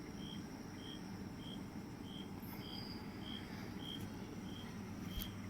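Steady low hum of the glass-door cooler's refrigeration unit running, with a short high chirp repeating evenly about three times every two seconds.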